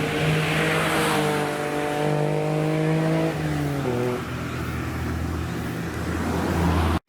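Car engine accelerating, its pitch rising gently for about three seconds, then dropping sharply as the revs fall, followed by a lower, steadier engine sound.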